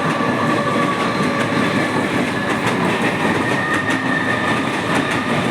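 Mumbai suburban electric train pulling into the station, its wheels clattering over the rail joints with a thin steady squeal above the rumble.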